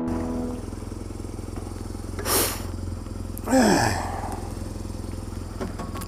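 BMW R1200GS twin-cam boxer twin idling steadily, just started cold after standing for seven months, as a music sting fades out at the start. A short hiss about two seconds in and a brief falling sound about three and a half seconds in sit over the idle.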